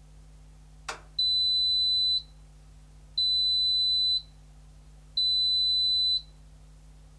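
Zanussi ZKN7120L washing machine's electronic buzzer sounding three long, even high-pitched beeps, each about a second long and two seconds apart, just after a sharp click.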